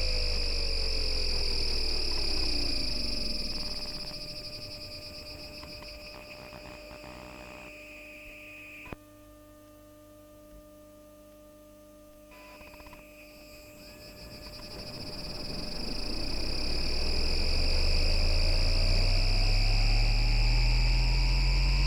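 Bombardier Flexity Outlook tram's traction motors under MITRAC IGBT VVVF inverter control. The motor whine falls in pitch as the tram brakes to a stop, and the inverter's steady high tones cut out with a click about nine seconds in, returning about three seconds later. The whine then rises in pitch and grows louder as the tram pulls away.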